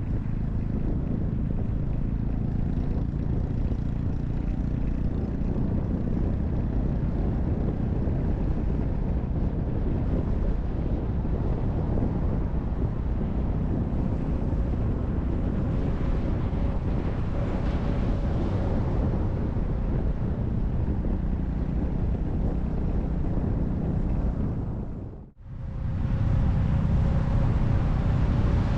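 Honda Monkey 125's single-cylinder four-stroke engine running while riding, with wind rushing over the microphone. The sound cuts out briefly near the end and comes back.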